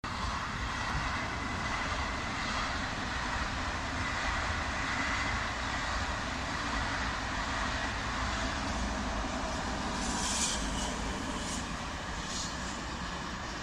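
BB 15000 electric locomotive hauling Corail coaches passing, a steady rushing rumble of wheels on rails that eases slightly near the end.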